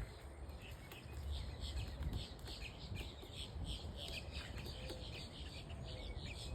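Birds chirping: a run of short, high chirps repeating several times a second, with a few lower gliding notes and a low rumble underneath.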